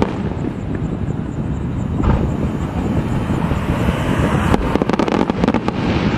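Japanese aerial fireworks (uchiage hanabi) in a barrage, many shells bursting in quick succession as one continuous heavy rumble of booms. A louder boom comes about two seconds in, and a flurry of sharp cracks in the second half.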